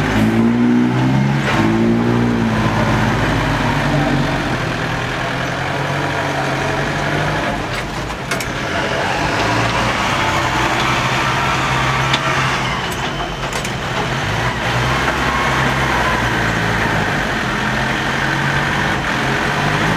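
Six-wheel dump truck's diesel engine running steadily, with a few short knocks and clanks.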